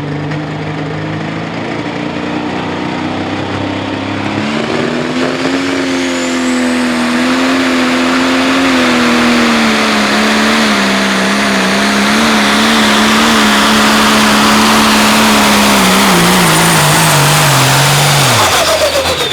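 Pro stock pulling tractor's turbocharged diesel engine pulling the sled at full throttle: the pitch climbs a few seconds in and holds high with small wavers. Near the end it winds down steadily as the throttle comes off at the end of the run, with a high turbo whistle falling away.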